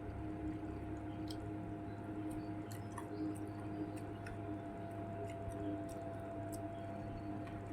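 A person chewing food, with small wet mouth clicks over a steady hum.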